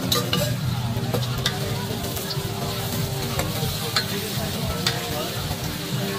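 Food sizzling and frying in a pan at a street food stall, with sharp clinks of utensils against the pan about eight times, over a steady low hum.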